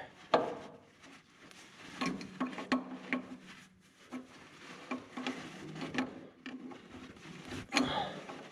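Scattered light clicks, taps and scrapes of hands and tools working a hydraulic hose fitting as it is threaded on and started tight.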